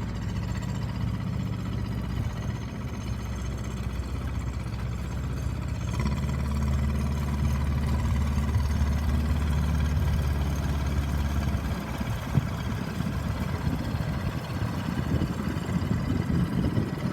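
Small Kubota Z600-B marine diesel running steadily with a low note; it grows stronger about six seconds in, and after about twelve seconds the steady note turns rougher and noisier, with one short knock.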